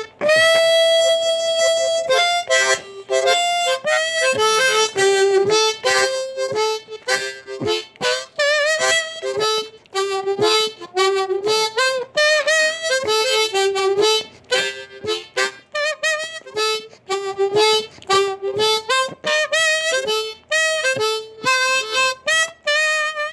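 Blues harmonica played solo: one long held note to open, then a fast run of short notes with bent, wavering pitches.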